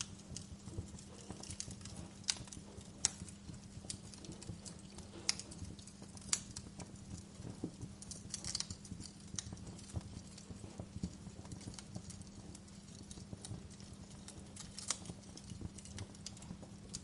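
Wood fire crackling in a fireplace: irregular sharp pops and snaps, a handful of them markedly louder, over a low steady rumble.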